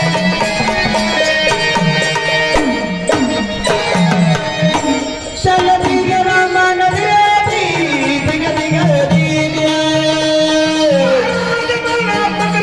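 Marathi gondhal devotional folk music, mostly instrumental here: a melody instrument plays held and gliding notes over steady hand-drum strokes.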